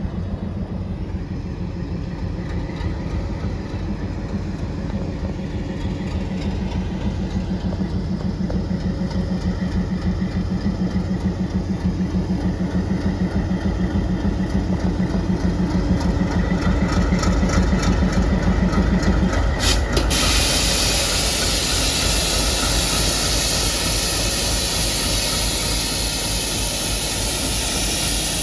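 ALCO WDM-3D diesel locomotive's V16 engine idling with a steady rhythmic throb. About twenty seconds in, a loud hiss of compressed air being released starts and carries on over the idling engine.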